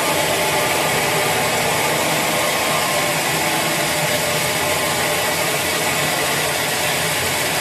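Sawmill saw machinery running steadily, a loud even noise with a low hum underneath.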